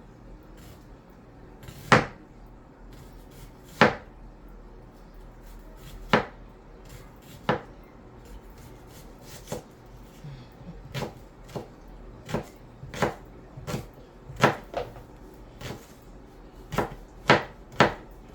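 Kitchen knife chopping on a cutting board: single sharp knocks, spaced a couple of seconds apart at first, then coming quicker and closer together in the second half.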